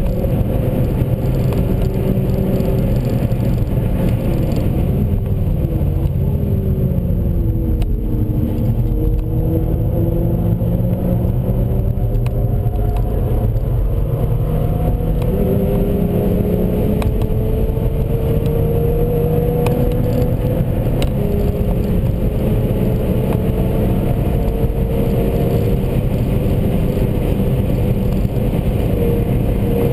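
Seat Leon Cupra 1P's turbocharged four-cylinder engine pulling hard under load, its pitch slowly climbing and then dropping or jumping several times with throttle and gear changes, over steady tyre and road noise.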